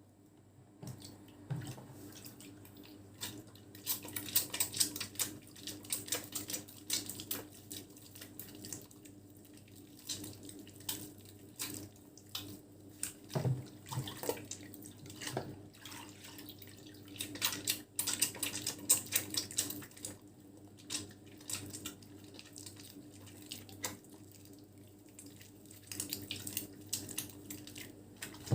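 Wet bar of Nefis lavender soap being lathered in the hands with water, with irregular squelching and a dense crackle of foam. A faint steady hum runs underneath.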